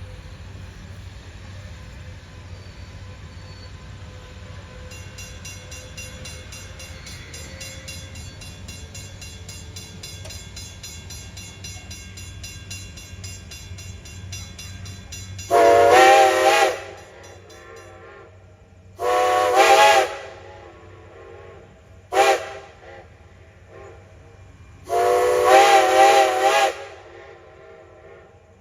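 Steam locomotive's chime whistle sounding the grade-crossing signal: two long blasts, a short one, then a long one. Before the whistle there is a low steady rumble from the approaching train.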